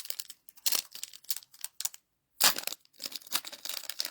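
A trading-card booster pack wrapper crinkling and tearing as it is opened, in irregular crackles with a short silent break about halfway.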